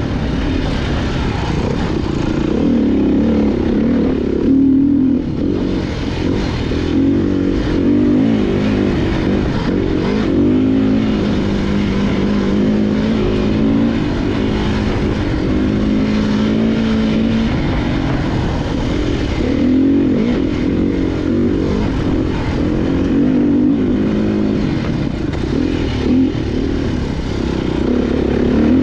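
Off-road motorcycle engine running hard on a trail, its pitch rising and falling over and over as the throttle is worked, with scattered knocks and clatter underneath.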